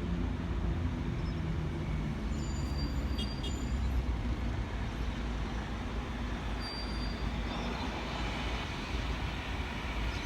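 Tangara electric suburban train pulling into the platform: a steady low rumble of wheels and running gear, with a few faint, brief high squeaks about three seconds in and again near seven seconds.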